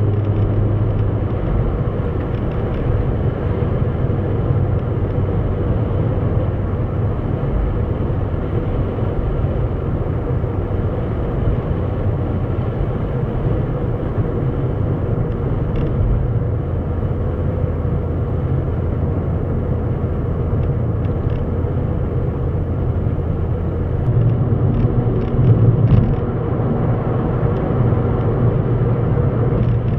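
Steady low rumble of a running motor vehicle with a constant hum, growing somewhat louder for a couple of seconds near the end.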